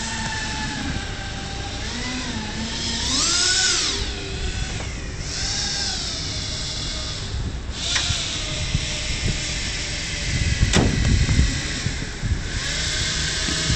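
Dremel rotary tool cutting into wood, its pitch dipping and rising as the load changes. About eleven seconds in there is a short burst of low knocking.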